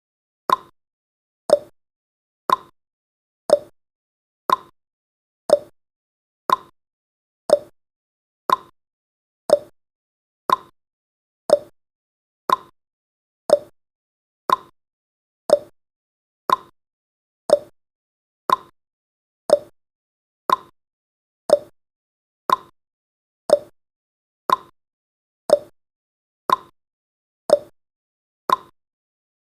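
Countdown timer's clock-tick sound effect: a sharp tick once a second, alternating between a higher and a lower tick like a tick-tock.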